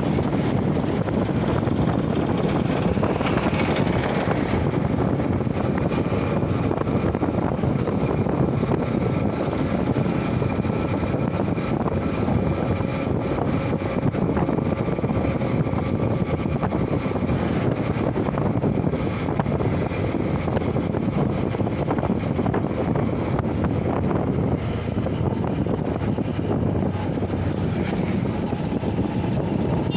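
Honda Shine SP 125 motorcycle's single-cylinder engine running at a steady riding speed, with wind rushing over the microphone.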